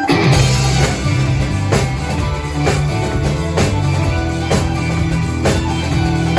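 Pop-rock song with a drum kit played along to it. The full band and drums come in suddenly at the start after a soft intro, with a sharp accent hit about once a second.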